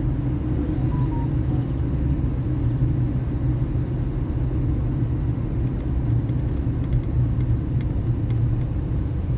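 Car being driven, with a steady low rumble of engine and road noise and a few faint ticks in the second half.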